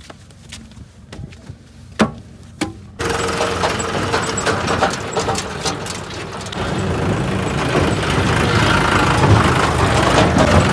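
Two sharp clicks. Then, about three seconds in, a John Deere 5210 tractor's diesel engine comes in abruptly with a loud low rumble and keeps running, growing louder past the middle.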